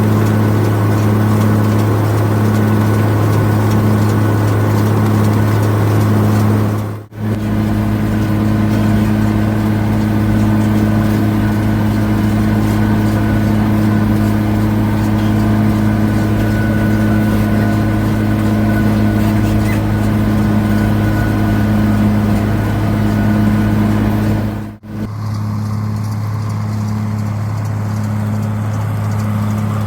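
White 2-135 tractor's diesel engine running steadily while pulling a round baler through hay. The sound drops out for a split second twice, about seven seconds in and near the end.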